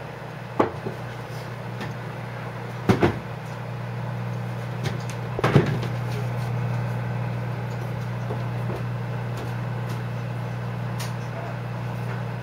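Microwave oven running with a steady low hum while a rice cake heats inside. A few sharp knocks sound over the hum: one about half a second in, a quick double knock at about three seconds, and another at about five and a half seconds.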